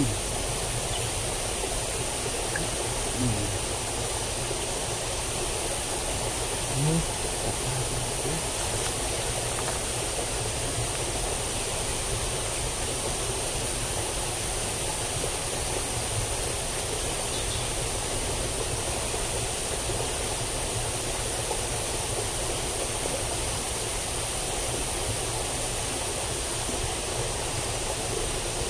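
Steady rush of flowing water in a plantation drainage ditch, with a steady high-pitched hiss running above it.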